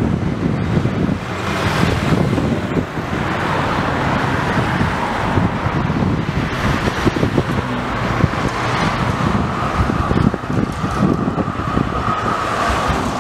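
Busy city street traffic on a tram corridor: trams and road vehicles running past in a steady rumble, with a steady high-pitched tone coming in about ten seconds in.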